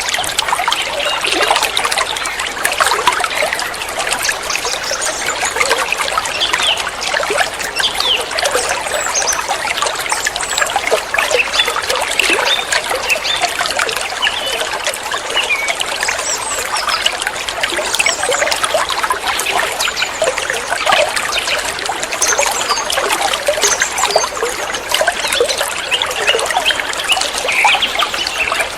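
Water trickling and splashing steadily, like a small stream or fountain spilling over stones, with an even, unbroken babble.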